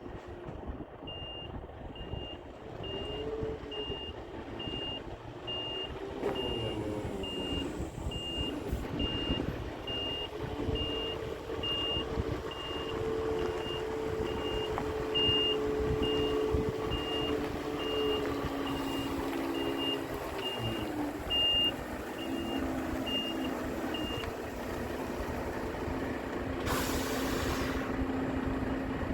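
Volvo FH tipper truck reversing: its reversing alarm beeps steadily, a little over once a second, over the running diesel engine, whose pitch rises and falls. The beeping stops a few seconds before the end, followed by a short hiss of air.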